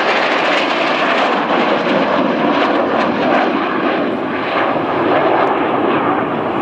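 Northrop F-5E Tiger II jet fighters in display flight, their twin turbojets making a loud, steady jet noise.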